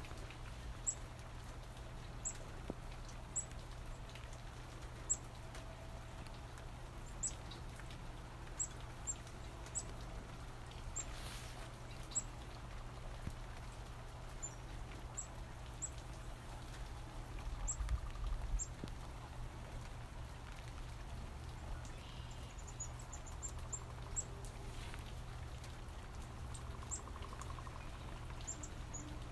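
Black-capped chickadees giving short, high, thin call notes every second or two, over a steady low background hum.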